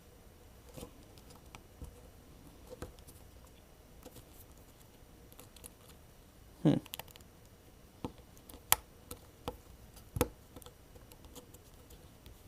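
Scattered small clicks and taps of plastic phone parts being handled and pressed into place inside a Samsung Galaxy S7, with a louder knock about two-thirds of the way through.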